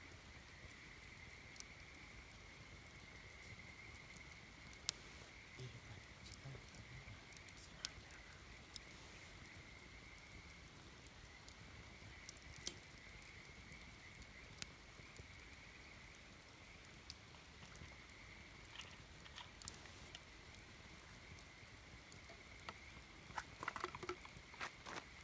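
Wood campfire crackling faintly, with scattered sharp pops at irregular intervals and a small flurry of them near the end, over a steady high-pitched tone.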